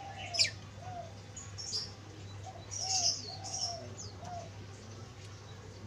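Spotted dove (tekukur) cooing: a run of short arching coos, about two a second, used as a decoy call for wild spotted doves. Sharp high chirps from small birds sound over it, the loudest about half a second in and a cluster around three seconds in.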